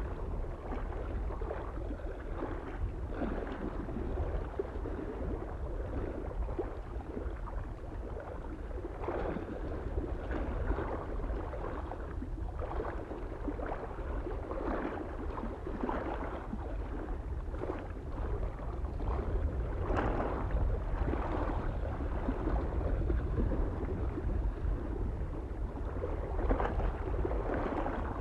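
Small lake waves lapping and splashing irregularly against the shore, a few soft splashes every second. Under them runs a steady low rumble of wind on the microphone.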